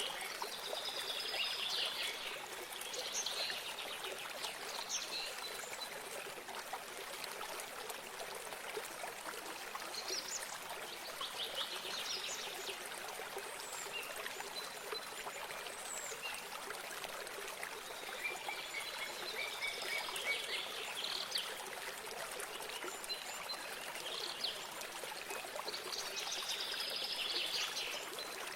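A small stream runs steadily while a songbird sings short phrases every several seconds, four times over.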